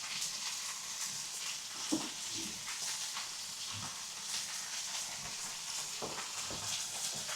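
Meat sizzling on a hot marble slab over a wood fire: a steady hiss with scattered small crackles.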